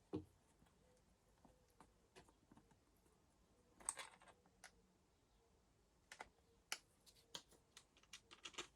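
Faint, scattered clicks and light knocks of parts and tools being handled, with a soft thump just after the start, a louder cluster of clicks about four seconds in, and a quick run of clicks near the end.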